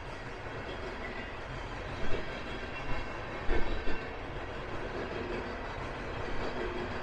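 Freight train rolling through, a steady rumble broken by heavy wheel knocks about two seconds in and again around three and a half to four seconds in, as the wheels cross the rail joints of the diamond crossing.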